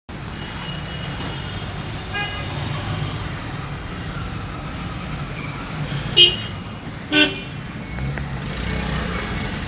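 Steady car engine and road rumble in traffic, with two short, loud car-horn honks about six and seven seconds in and fainter honks earlier.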